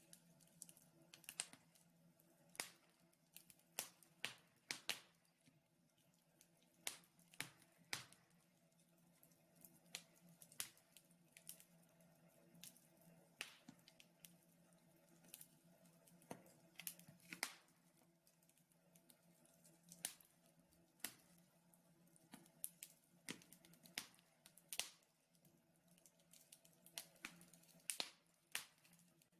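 Wood fire burning in a fireplace, crackling with irregular sharp pops, one or two a second, over a faint steady hum.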